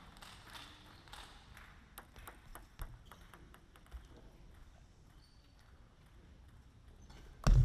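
Light, sharp clicks of a table tennis ball bouncing and tapping at uneven intervals, over the faint hiss of a large hall. A loud low sound starts suddenly near the end.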